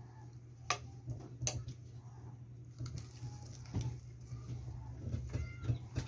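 Eating sounds of a person chewing fried chicken and mashed potato, with sharp wet mouth clicks and smacks scattered through, over a steady low hum.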